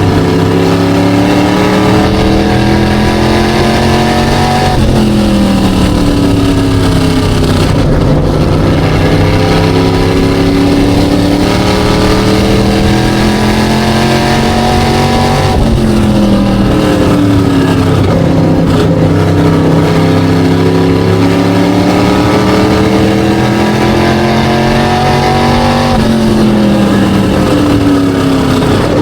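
Race car engine running hard on track, its pitch climbing steadily as it accelerates and dropping sharply as the throttle comes off, three times in a repeating cycle, lap after lap.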